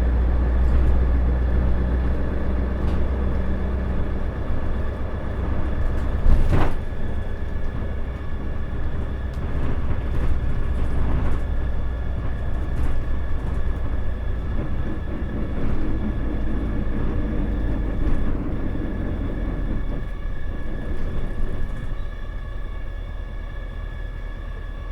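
Isuzu Erga route bus (KL-LV380L1) under way, heard from inside the cabin: diesel engine and drive running with a steady low rumble and faint whine. There is a single sharp knock about six and a half seconds in, and the sound eases off near the end.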